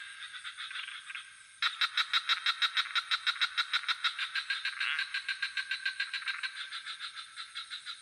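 Frogs calling in a fast, even train of pulses, about six a second, over a steady high insect drone. The calls fade out briefly, then resume abruptly about a second and a half in.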